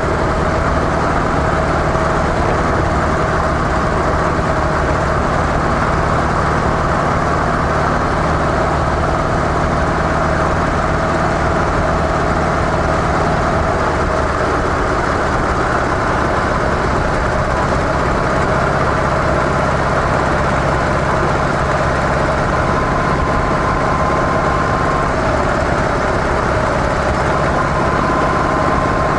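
Harley-Davidson CVO Softail Deluxe's V-twin engine running steadily through its stock mufflers; the engine note shifts slightly about halfway through.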